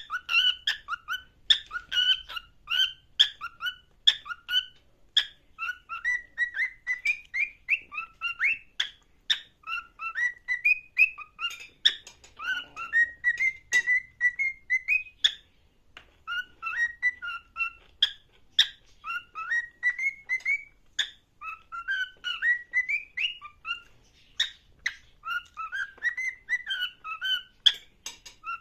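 Pet parrot whistling over and over in short repeated phrases of two or three notes and rising glides, with sharp clicks among the whistles.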